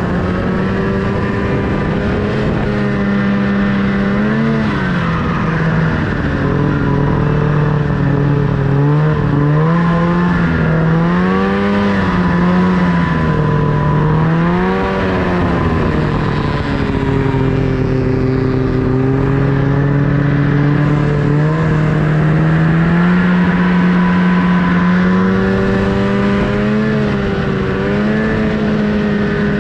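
Snowmobile engine running under varying throttle, its pitch rising and falling several times in the first half, holding steadier and lower for a stretch after the middle, then rising again near the end.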